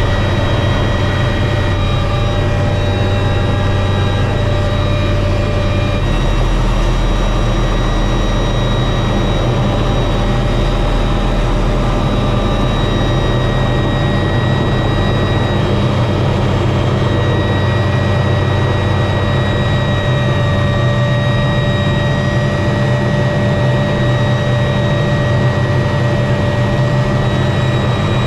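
MD 500 helicopter's turbine engine and rotor running steadily in flight: a high, steady turbine whine over a constant low rotor drone.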